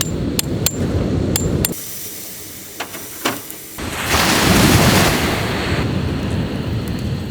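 Sea waves washing ashore: a low rumbling wash, a quieter lull, then a swell of surf about four seconds in that fades away, with scattered sharp crackles throughout.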